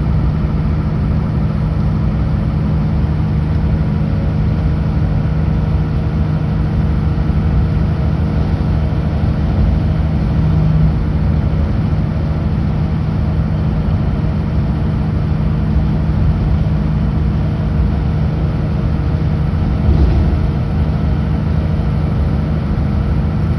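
Kenworth W900L semi truck's diesel engine running at a steady, unchanging pitch, with road and cab noise, and a brief bump about twenty seconds in.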